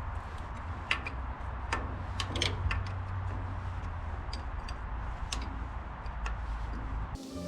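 Irregular light clicks and taps of hand tools on metal while a tractor carburetor is unbolted, over a steady low rumble.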